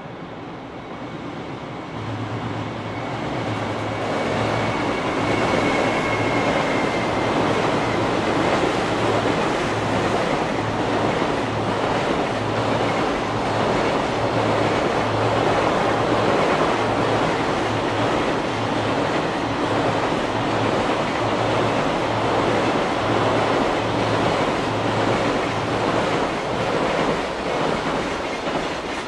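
Long freight train of container wagons, hauled by an EF210 electric locomotive, passing across a steel girder bridge: a steady rumble and clickety-clack of the wheels that builds over the first few seconds, with a faint high whine near the start.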